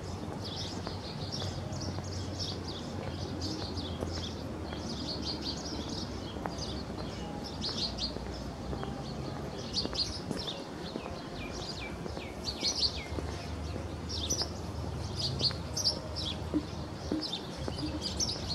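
Small birds chirping, a steady stream of short high chirps, with a low steady rumble underneath.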